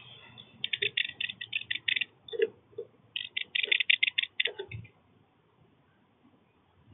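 Two quick runs of sharp ticks at about eight to ten a second, each lasting a second or so, from birds at a backyard feeder, then quiet.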